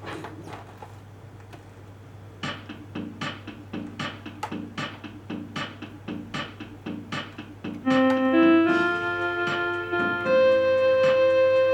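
Electronic keyboard music: the built-in accompaniment comes in about two and a half seconds in, with a steady drum-machine beat and soft chords. About eight seconds in, a louder melody line of held electric-piano notes, played by hand, joins over it.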